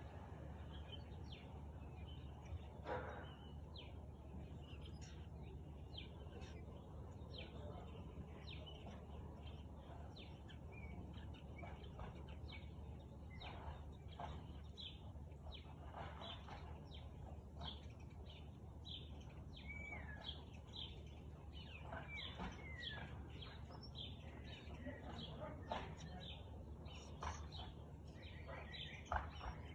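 Birds chirping: many short, high calls and a few gliding notes, over a steady low background hum.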